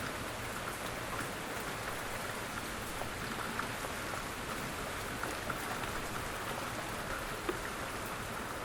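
Steady rain falling, an even hiss with scattered small ticks of individual drops striking a surface.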